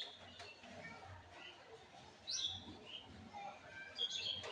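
Small birds chirping in short, high calls, loudest about halfway through and again near the end.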